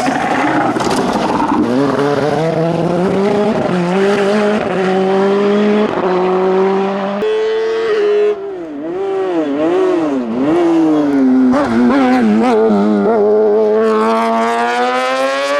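Hillclimb race car engine at full throttle, holding a high steady pitch, then, after an abrupt cut to another stretch, revving up and down quickly through a series of corners before a long rising pull through the gear near the end.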